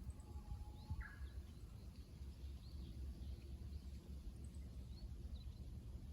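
A Japanese bush warbler (uguisu) sings its song: a long, even whistle, then a quick higher flourish about a second in. Faint short chirps of other small birds sit over a low outdoor rumble.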